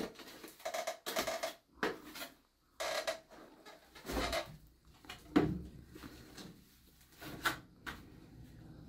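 Irregular knocks and clatter of household objects being moved and handled, with a heavier thud about five and a half seconds in.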